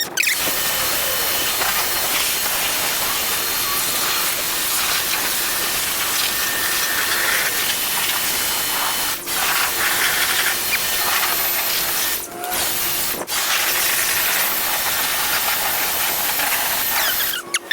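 Pressure-washer spray hissing steadily against the car, cut off briefly three times partway through as the trigger is let go.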